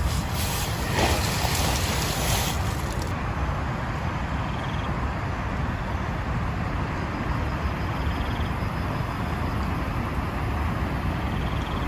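Steady heavy rain with a low rumble of wind; the high hiss of the rain thins out about three seconds in.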